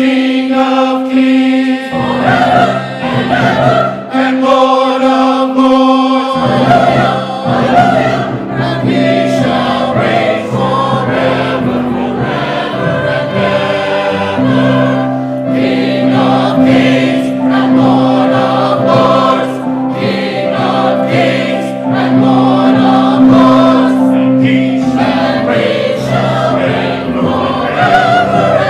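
Church choir singing a Christmas piece, with steady held low notes beneath the voices.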